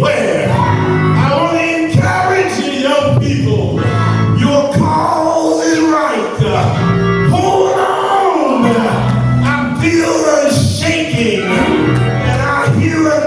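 Gospel music with a man's voice singing over sustained chords and a steady beat.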